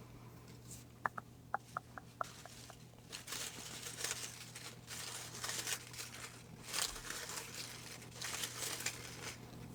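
A quick run of about six small clicks, then several seconds of soft, irregular paper rustling and crinkling: a hand drawing the next folded name slip from a hat and unfolding it.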